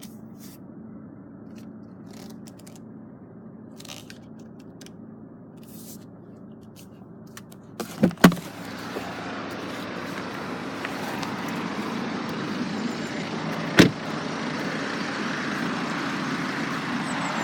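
A steady low hum with a few light clicks. About eight seconds in come two sharp thumps, then a louder steady noise, with one more sharp knock a little before the end.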